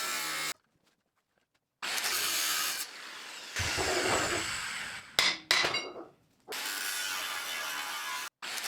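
Metalworking tool noise on steel, grinding or cutting, in short edited segments with abrupt cuts to silence and a brief sharp metallic event about five seconds in.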